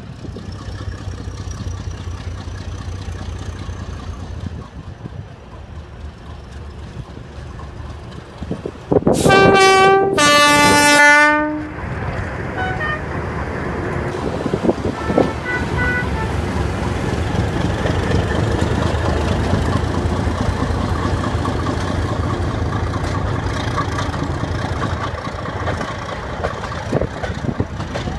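Steam locomotive whistle blown twice about nine seconds in, a short higher blast and then a longer, lower one, over a steady rumble that grows a little afterwards.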